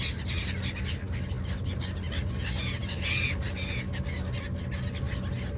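Seagulls squawking over a boat, with a cluster of harsh calls about three seconds in, over the boat engine's steady low drone.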